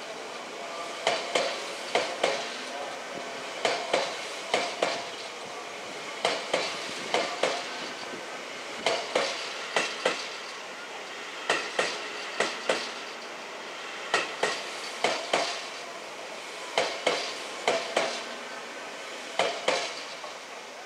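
Keisei AE-type Skyliner train passing slowly close by. Its wheels click over the rail joints in quick pairs, a group of clicks every two to three seconds as each car goes by, over a steady running hum.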